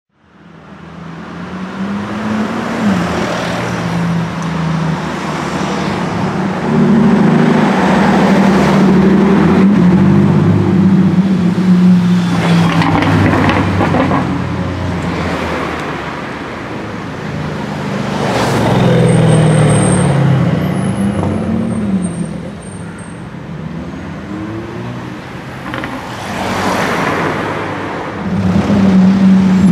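Exhaust of a Brabus G 800's 6.0-litre twin-turbo V12 driving and accelerating, the revs rising and falling several times, loudest as it swells past about a quarter of the way in and again near the end.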